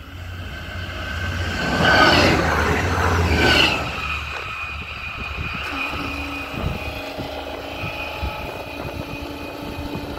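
Fast passenger train passing close by at speed: a rising rush of noise that peaks about two to four seconds in, then drops away as the train recedes, leaving a steadier, fainter hum.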